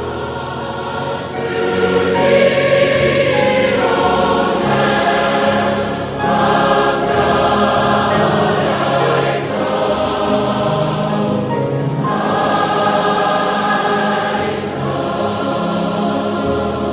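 Large choir singing a hymn in long, held phrases.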